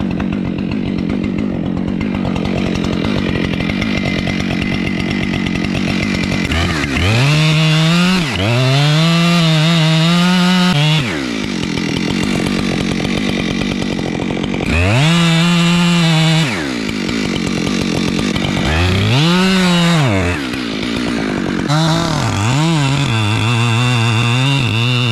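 Husqvarna 592 XP chainsaw idling, then opened up to full throttle in four bursts as it cuts into the trunk, its pitch sagging under load and falling back to idle between cuts, while it cuts a block-face undercut.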